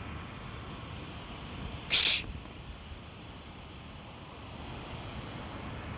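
Pigeons in a loft, with one short, loud, hiss-like burst about two seconds in over a low steady background.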